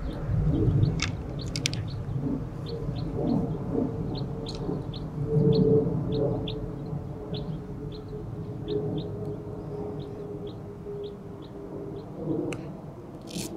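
A bird chirping over and over, short high chirps about twice a second, over a low outdoor rumble. Near the end comes a sharp click: a golf club striking the ball on a short approach shot.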